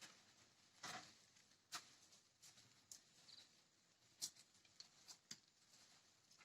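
Near silence, with faint scattered clicks and a brief high chirp about three seconds in.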